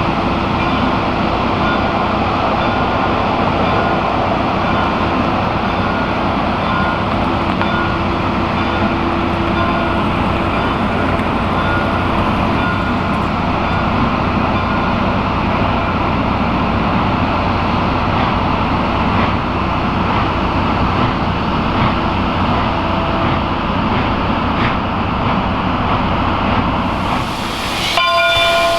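Steam train running on the rails: a steady rumble and rattle of the cars with a faint steady whine. Right at the end a steam whistle starts to blow.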